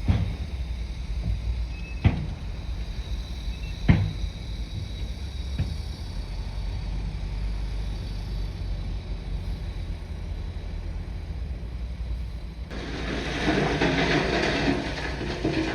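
Bulldozer's diesel engine running with a steady low rumble, broken by four sharp knocks in the first six seconds. Near the end a louder, rougher rattling noise suddenly sets in over it.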